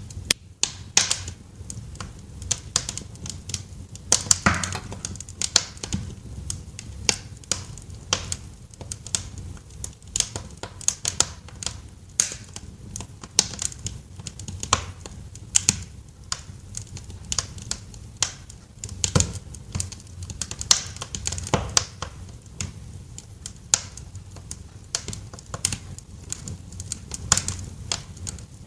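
Wood fire crackling in a fireplace: irregular sharp pops and snaps, several a second and some louder than others, over a low steady rumble.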